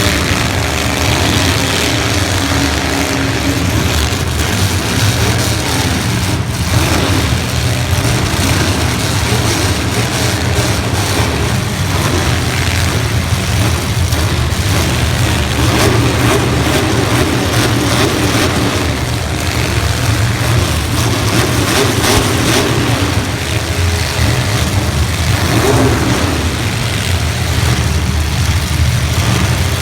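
Demolition derby car engines running and revving together, loud and steady, with a sharp knock about six and a half seconds in.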